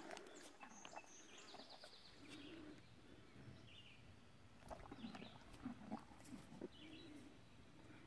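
Very quiet pasture ambience with faint, scattered bird chirps, including a short trill about a second and a half in, and a few soft low sounds near the horse.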